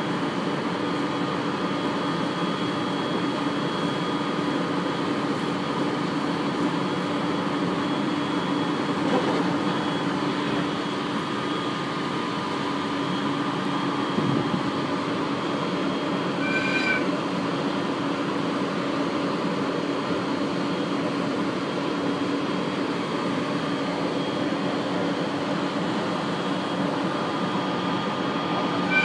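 Cabin running noise of an Aoimori Railway 701-series electric train at speed: a steady rumble of wheels on rail with a constant hum. A short high-pitched chirp sounds twice, about halfway through and at the very end.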